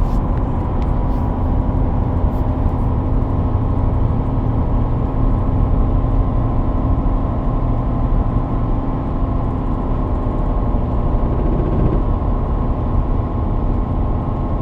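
Chevy truck with a 5.3 LS V8 driving at highway speed, heard from the cab: steady engine and road noise with a rapid repetitive hammering, the 'woodpecker' noise. It was later traced to the engine's Active Fuel Management cylinder-deactivation system.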